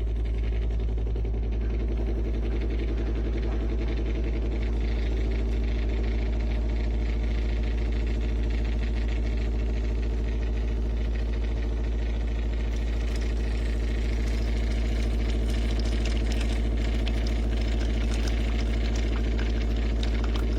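De'Longhi TrueBrew coffee maker brewing: its pump runs with a steady, loud low hum, and a light splashing of coffee streaming out grows in the second half.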